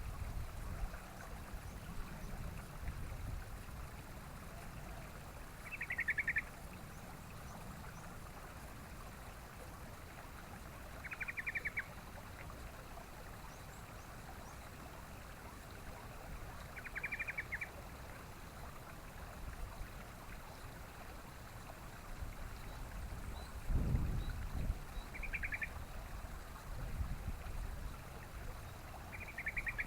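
Yellow-vented bulbul giving short, quick chattering calls, five in all, spaced about five or six seconds apart, over a steady low rumble. The rumble swells briefly about two-thirds of the way through.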